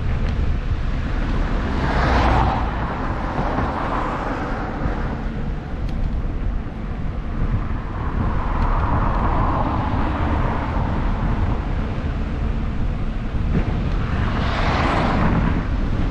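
Wind rumbling on the microphone of a moving bicycle, with the noise of passing cars swelling and fading about two seconds in and again near the end.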